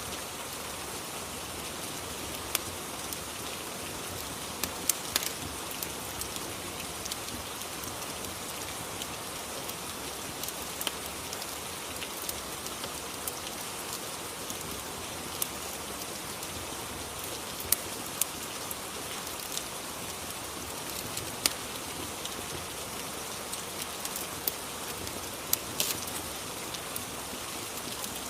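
Steady rain, with scattered sharp pops or clicks every second or two.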